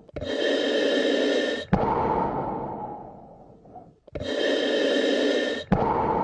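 Slow, deep human breathing, close to the microphone: two full breaths, each a short even breath of about a second and a half that stops abruptly, followed by a longer breath that fades away.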